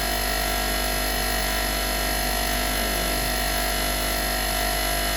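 Electric wire brush running steadily with an even hum.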